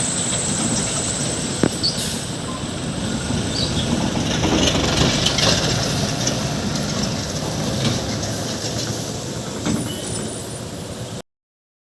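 Heavy diesel vehicle engine running and labouring through a steep hairpin bend, with tyre and road noise and a few short high squeaks. The sound cuts off abruptly about eleven seconds in.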